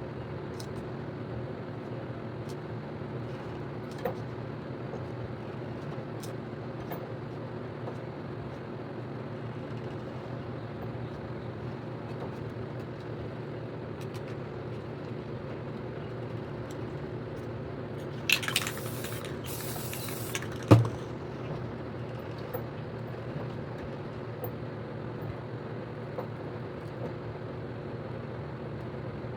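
An aerosol spray paint can hisses in one burst of about two seconds, with a short break in it, about two-thirds of the way in, followed at once by a sharp knock. A steady low hum runs underneath throughout.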